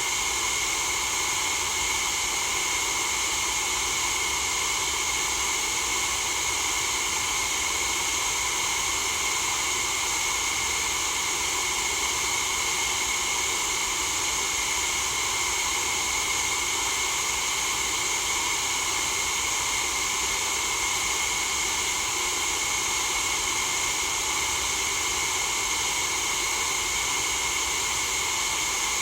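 Steady white-noise hiss for sleep, even and unchanging, brightest in the high treble.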